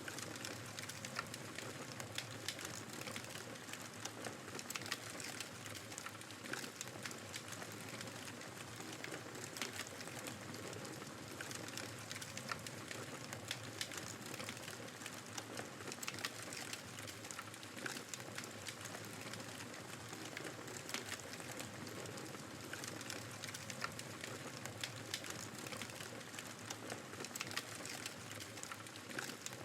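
Wood fire crackling, with many small irregular pops, over the steady rushing noise of blizzard wind.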